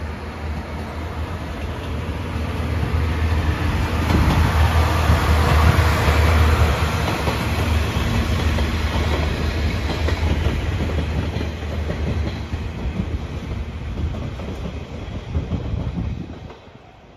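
An Anpanman-painted trolley (torokko) train passing close by, its wheels clacking over the rail joints under a steady low rumble. The sound builds to its loudest about five seconds in, fades as the cars go by, and drops away sharply near the end.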